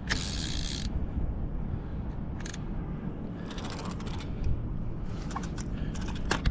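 Fishing reel being cranked with a rod, giving scattered mechanical clicks and ratcheting while a catfish is being fought in, over a steady low rumble.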